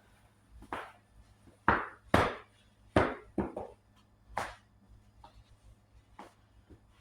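A series of about eight irregular knocks and clunks of hard objects, loudest around the middle.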